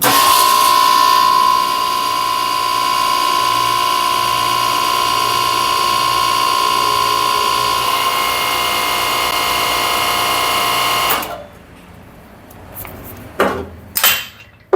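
Hose crimping machine running steadily while it crimps a fitting onto a power steering pressure hose: a steady whine made of several even tones, which cuts off suddenly after about eleven seconds. A few short knocks follow near the end.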